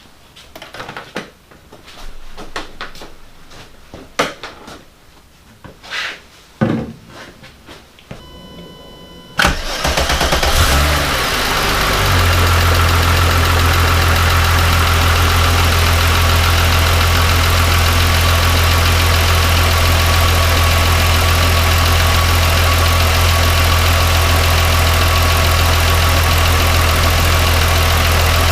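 A few scattered clicks and knocks, then a brief steady tone, then the 1998 VW Golf VR6's engine cranks and catches about nine seconds in and settles into a steady idle. This is the first start after an oil and filter change.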